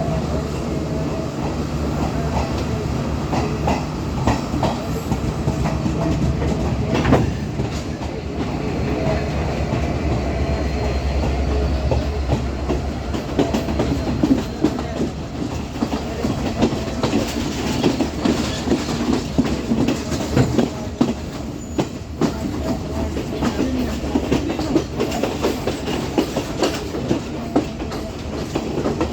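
Class S12 diesel multiple unit train running steadily along the line, with a low rumble and the clickety-clack of wheels over rail joints.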